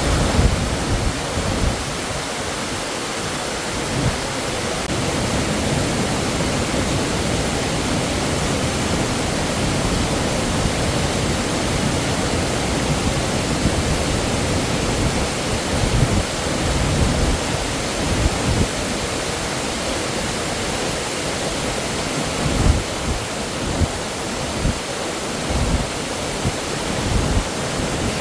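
Waterfall: a steady rush of falling water, with irregular low surges in it.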